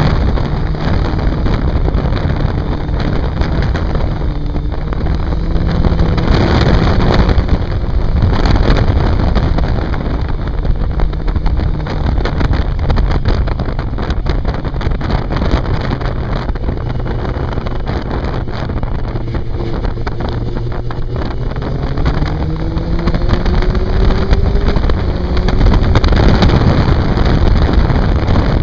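750 cc inline-four sport motorcycle engine heard from the moving bike, its pitch falling and rising with the throttle through the bends and climbing in a long rise about three-quarters of the way through, under heavy wind noise on the microphone.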